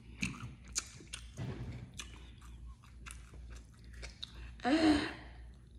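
Close-up wet chewing and lip-smacking of a mouthful of soft food, with many small scattered clicks. Near the end comes a short, louder vocal sound from the eater.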